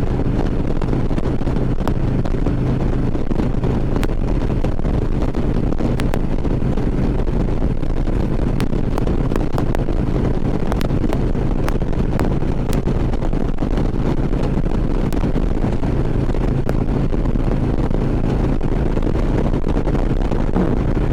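Harley-Davidson V-twin motorcycle engine running at a steady cruise, with wind rushing over the microphone.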